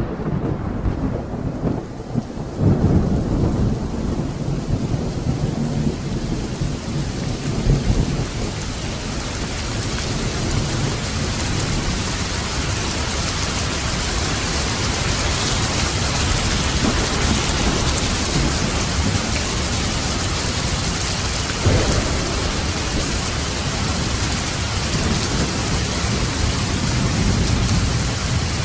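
Steady rain falling, with rolling thunder rumbling low over the first several seconds and a short burst of thunder about three-quarters of the way through.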